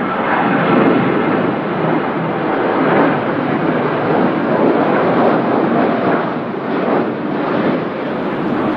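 A landing airplane's loud rushing roar, surging unevenly.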